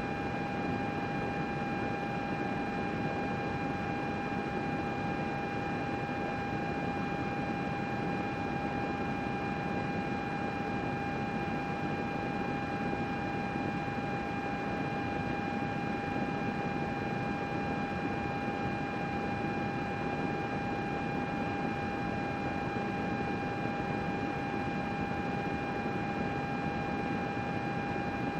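Computer running, its cooling fans giving a steady whir with a constant high whine over it.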